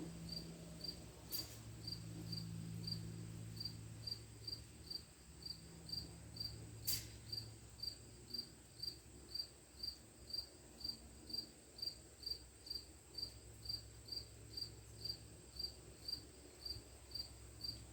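A short high-pitched chirp repeating evenly about twice a second over a faint low hum, with a couple of light clicks.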